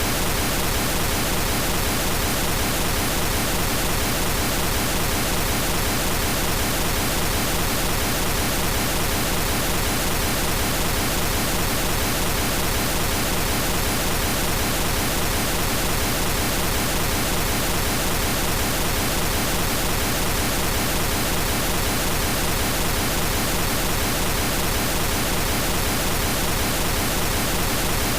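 Periodic pink noise test signal on the left channel: a steady, even hiss across all pitches that does not change.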